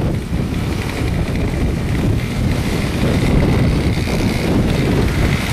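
Blizzard wind buffeting the microphone in a heavy, uneven rumble. A faint steady engine whine comes in under it about two seconds in.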